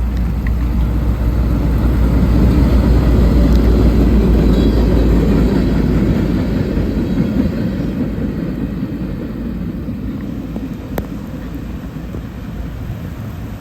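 Louisville & Indiana Railroad diesel train passing, a heavy low rumble that builds to its loudest about four seconds in and then slowly fades, leaving the hiss of pouring rain.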